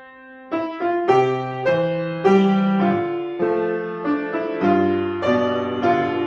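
Solo piano playing: a held note fades out, then a new phrase starts about half a second in, with notes and chords struck about twice a second.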